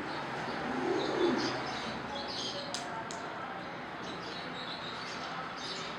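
Pigeon cooing about a second in, with small aviary birds chirping on and off throughout.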